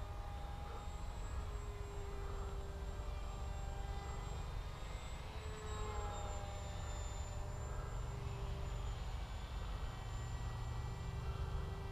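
Bixler RC plane's electric motor and propeller whining in flight. The tones shift slightly in pitch as it manoeuvres, over a steady low rumble.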